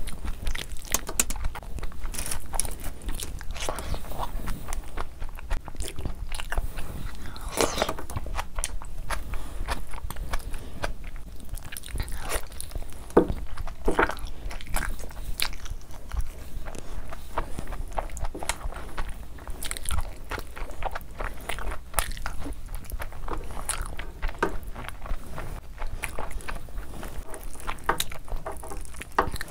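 Close-miked chewing and wet mouth sounds of a person eating mutton curry and vegetable pulao by the handful, with many irregular smacks and clicks.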